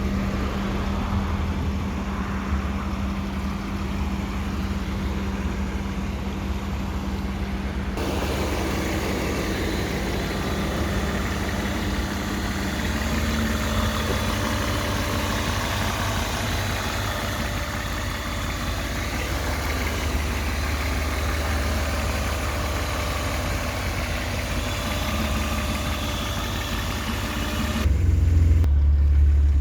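BMW E36 328i's M52B28 2.8-litre inline-six with single VANOS, idling steadily through its stock exhaust. Near the end the low rumble grows louder.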